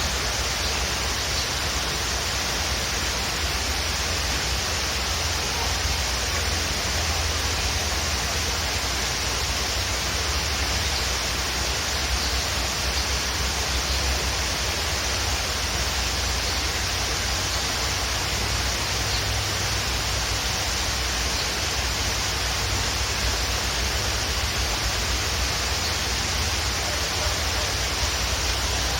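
Waterfall rushing steadily, with a few faint, scattered bird chirps.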